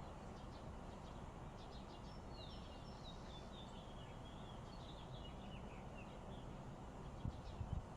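Faint bird chirps, a run of short falling notes, over a steady low background noise, with a few brief low thumps near the end.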